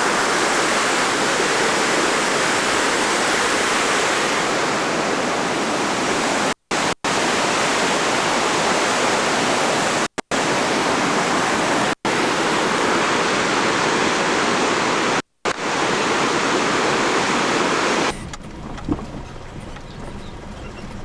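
Rushing water from a waterfall or fast stream, a loud, steady roar. It is broken by a few split-second dropouts and gives way to a much quieter background near the end.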